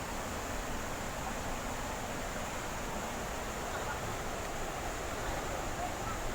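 Steady rushing of flowing river water, an even hiss that holds at one level throughout.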